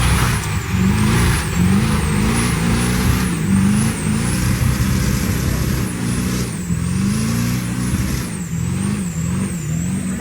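Truck engine being revved over and over, its pitch climbing and dropping about once a second, with a thin high whine that rises and falls along with the revs.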